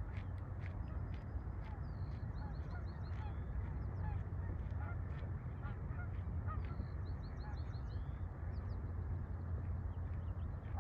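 Birds calling: scattered short calls, with two quick runs of high chirps about two and seven seconds in, over a steady low rumble.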